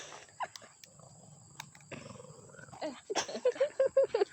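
Puppies making play growls and yips, with a quick run of short yips about three seconds in.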